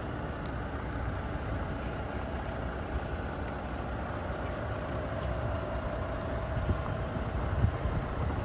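Diesel engine of a 2014 International roll-back tow truck running steadily at idle, with a few louder low surges near the end.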